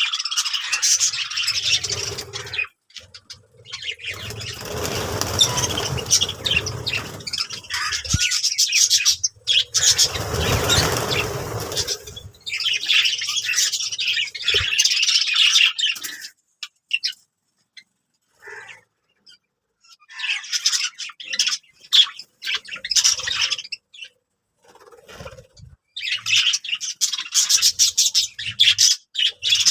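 Budgerigars chattering and warbling in bursts of fast, high chirps with pauses between them, along with two stretches of rustling noise in the first half.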